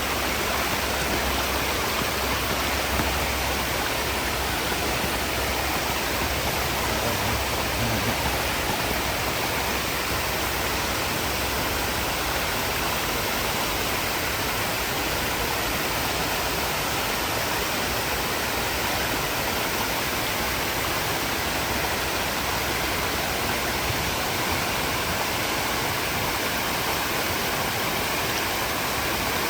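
Waterfall water falling and rushing in a steady, unbroken roar.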